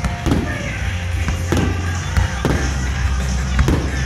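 Fireworks shells bursting with several sharp bangs about a second apart, each trailing a short echo, over loud music with a heavy bass.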